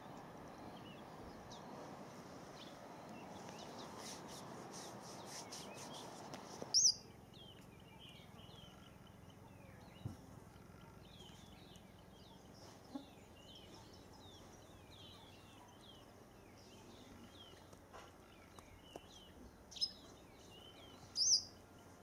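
Small birds chirping and calling: a busy scatter of short, high chirps, with three louder, sharp high calls, one about seven seconds in and two near the end. A steady low hiss of background noise fills the first several seconds.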